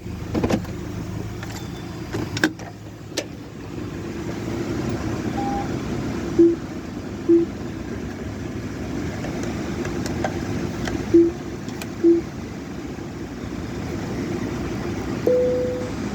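Car wash tunnel equipment running steadily, with a few sharp clicks early on. Two pairs of short electronic beeps sound in the middle, and a longer, higher beep comes near the end.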